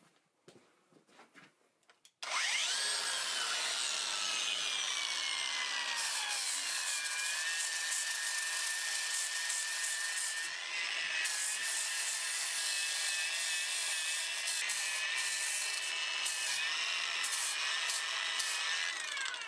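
An electric grinder starts about two seconds in. Its high whine drops in pitch over the next few seconds as it is loaded, then holds steady while it grinds steel with a gritty hiss. Near the end its pitch falls away as it is eased off.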